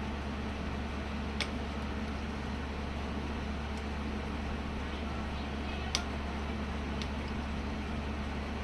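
Steady low hum and hiss with a few sharp clicks, one about a second and a half in and a louder one near six seconds, from plastic hose fittings and parts being handled while the hoses are worked off the water dispenser's pump.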